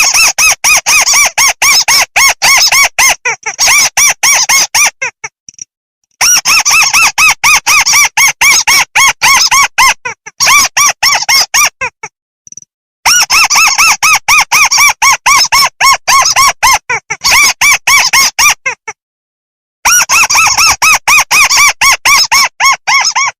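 Crake (tikusan sawah) calling: rapid trains of harsh, repeated notes, several a second, in four bouts of about five seconds broken by short silent gaps. It is a looped call recording of the kind played as a lure to trap these birds.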